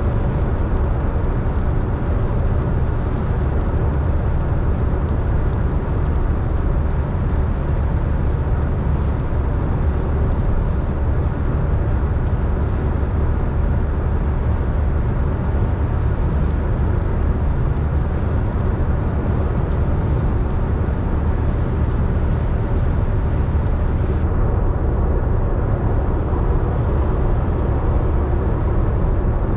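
A car driving steadily: continuous engine and tyre rumble, deepest at the bottom, with no changes or sudden sounds.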